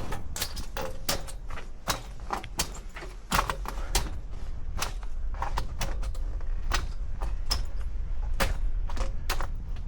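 A hiker's footsteps on a mountain trail, sharp crisp steps or clicks about two a second, over a low rumble of wind on the microphone.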